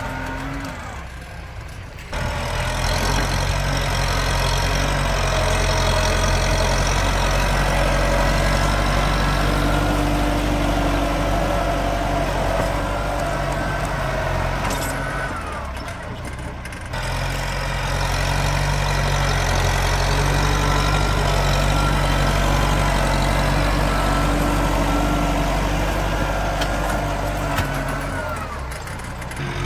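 A tractor engine running steadily and loud, working under load. It eases off briefly about halfway through and again near the end.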